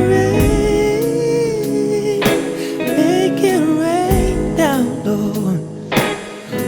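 Recorded song: a male voice singing long, drawn-out wordless or held notes over guitar, bass and drums, with a drum hit about every two seconds.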